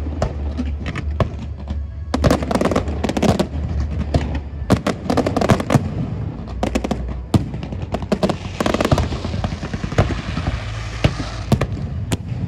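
Aerial fireworks bursting: a quick, irregular series of bangs and pops, with a denser stretch of crackling about two-thirds of the way through and a steady low rumble underneath.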